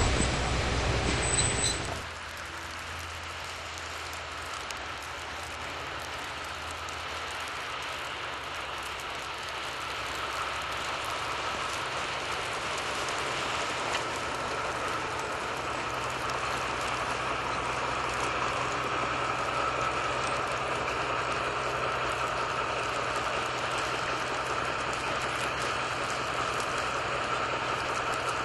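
Narrow-gauge diesel train running, a steady engine hum with rail noise that grows slowly louder. The sound is louder and different at first, then changes sharply about two seconds in.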